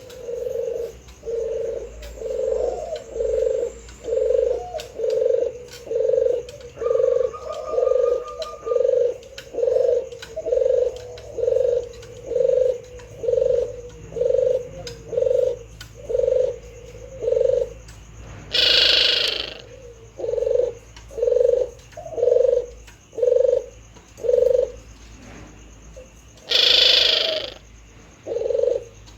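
Male puter dove (domestic Streptopelia dove) cooing in full song: a low note repeated evenly about once every three-quarters of a second. Two short bursts of hissing noise break in, about two-thirds of the way through and again near the end.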